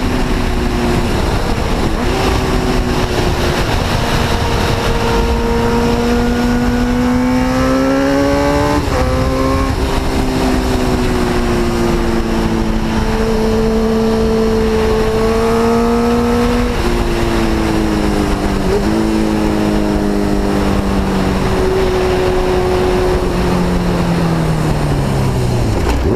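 Motorcycle engine running hard at speed over a steady rush of wind, its pitch climbing and stepping several times as it changes gear, then falling steeply near the end as it slows.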